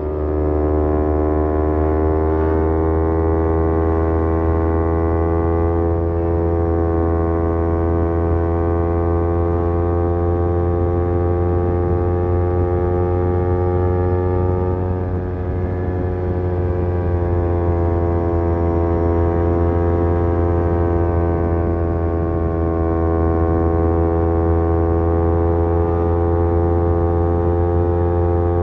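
Kawasaki Z250 engine running through an aftermarket SeaPro muffler while cruising at fairly steady revs. The pitch rises a little in the first couple of seconds, then holds with small rises and dips.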